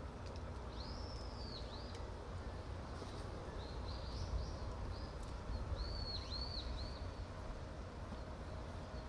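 A bird calling: short arching high chirps in quick groups of two or three, repeated several times, over a steady low outdoor rumble.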